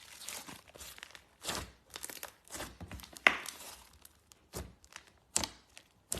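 Slime being handled by hand: a string of irregular short crackling and popping noises, with a sharp pop about three seconds in.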